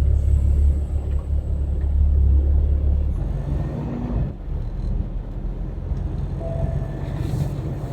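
Semi truck's diesel engine rumbling, heard from inside the cab. The deep rumble lightens about three seconds in, and brief faint hums come and go after that.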